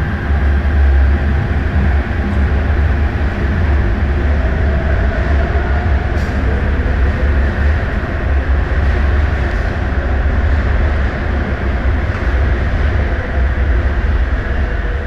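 MTR Tung Chung line CAF electric multiple-unit train running on the track: a steady, loud, low rumble with wheel-on-rail noise.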